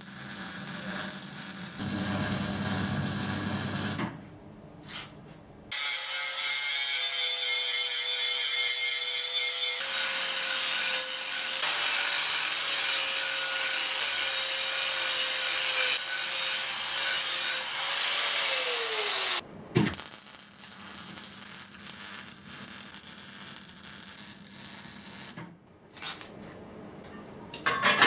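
Power tool work on steel in several short cut-together clips. An electric tool motor runs with a steady whine for about a dozen seconds, then winds down in pitch and stops. Before and after it come rougher grinding and rubbing sounds.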